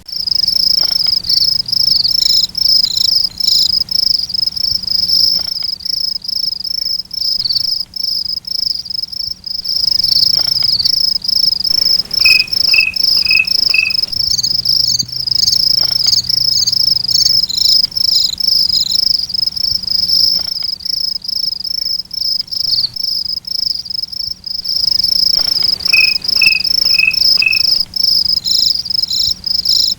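Crickets chirping in a fast, continuous pulsed trill. A lower chirp repeated four times joins in twice.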